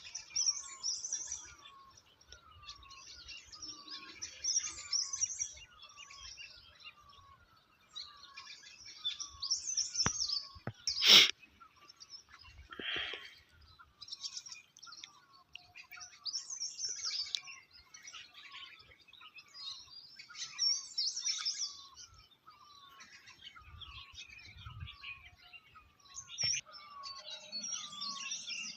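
Several songbirds chirping and singing over one another, with a lower, short falling call repeating at a steady pace throughout. A single sharp click about eleven seconds in is the loudest sound.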